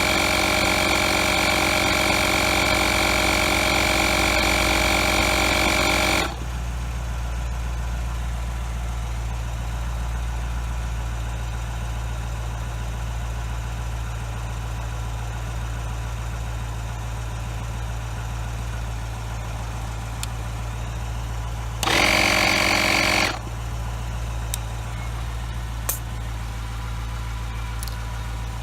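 Small 12-volt portable tire inflator running with a loud, high whine, cutting off suddenly about six seconds in and running again for about a second later on. Underneath, a steady low hum of the car's engine idling.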